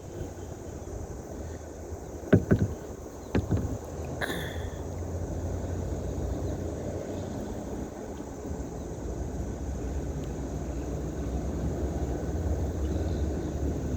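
Steady low rumble that grows slightly louder through the stretch, with a few sharp knocks about two to three and a half seconds in, and a brief high call about four seconds in.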